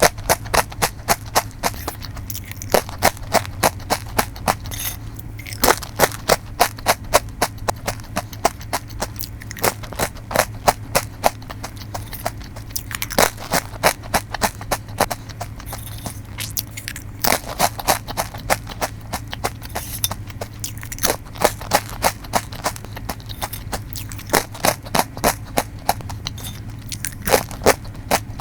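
Truffle crackers crunched in the mouth, close to the microphone: long runs of crisp cracks, about three or four a second, with brief pauses now and then, over a steady low hum.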